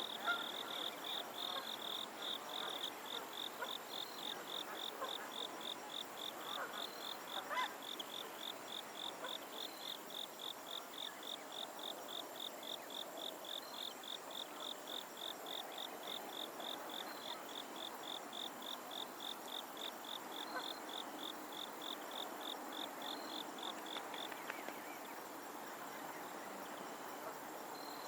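A cricket chirping steadily in an even rhythm of about two to three high chirps a second. It stops near the end. A faint short call sounds once, about a third of the way in.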